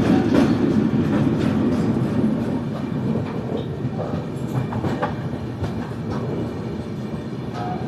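Express passenger train running at speed: a steady low rumble with the wheels clicking irregularly over rail joints, easing a little toward the end.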